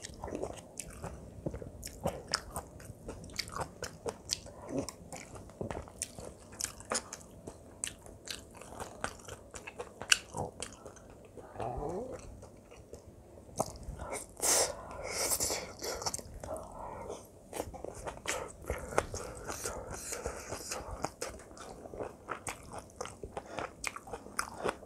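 Close-miked chewing of a mouthful of kimchi fried rice with Spam: steady wet chewing with small crunches and clicks. A louder, noisier sound stands out a little past halfway.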